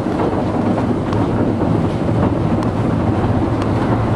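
Automatic car wash working over a truck: a steady rush of water spray with a low machinery rumble, heard muffled from inside the closed cab.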